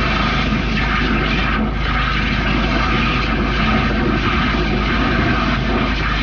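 High-pressure drain-jetting machine running steadily, its motor and pump making a loud, even drone while the hose flushes the pipe.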